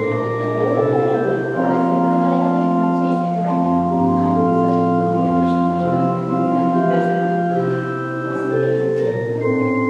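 Organ playing slow, sustained chords over held bass notes: a prelude of church organ music.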